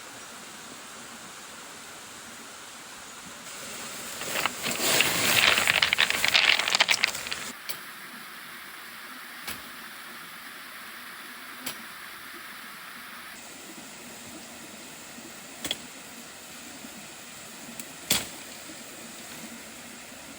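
Steady rush of a waterfall, with a loud crackly burst lasting about four seconds starting a few seconds in, then four short sharp clicks spaced a few seconds apart.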